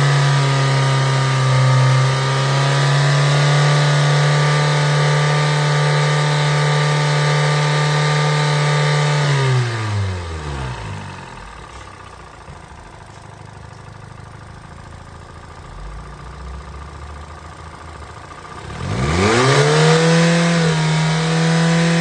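2013 Hyundai Elantra's 1.8-litre inline-four engine held at a raised, steady speed for about nine seconds, then dropping back to a quiet idle. Just before the end it is revved up again and held briefly.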